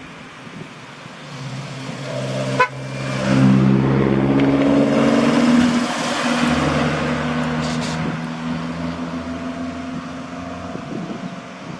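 Large truck running close by, swelling as it pulls in and then settling to a steady run. There is a sharp click about two and a half seconds in.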